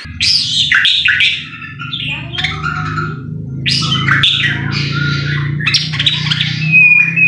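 White-rumped shama (murai batu) singing a fast, varied song of sweeping and harsh notes, with a long level whistle near the end. A steady low hum runs underneath.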